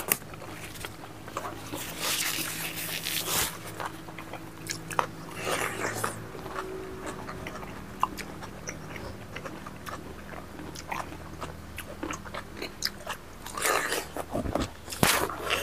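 Close-up eating sounds from two people eating pork and rice with their hands: irregular biting, chewing and mouth clicks, with a few louder bites, over a faint steady low hum.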